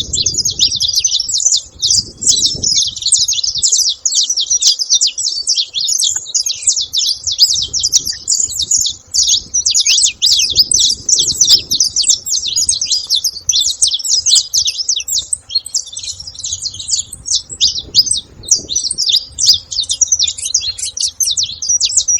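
A flock of saffron finches chirping and calling all at once: a dense, unbroken chatter of many short, high notes overlapping one another.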